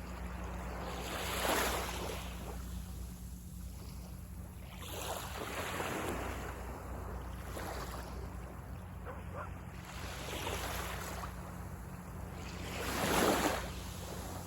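Small sea waves breaking and washing up the beach in four surges that swell and fade, the loudest near the end.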